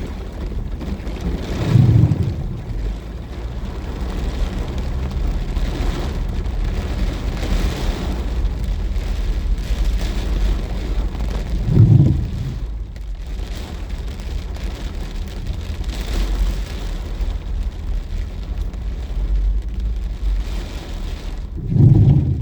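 Heavy rain falling, over a steady low rumble, with three louder low swells about ten seconds apart.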